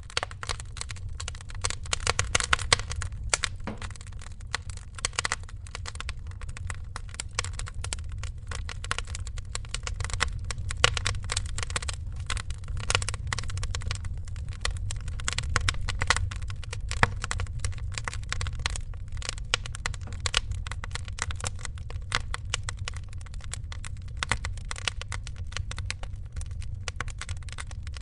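Wood fire crackling, with dense irregular snaps and occasional louder pops over a steady low rumble.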